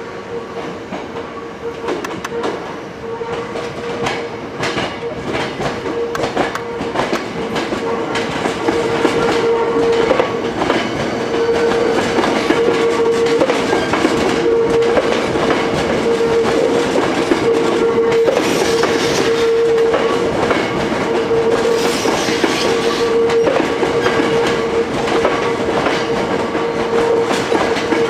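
Hankyu electric train moving slowly through depot track, its wheels clicking over rail joints and points, growing louder over the first ten seconds or so. A steady tone is held underneath throughout.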